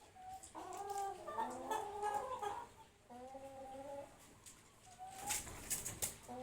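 Broiler chickens clucking: repeated short, pitched calls in overlapping runs, with a few sharp clicks about five seconds in.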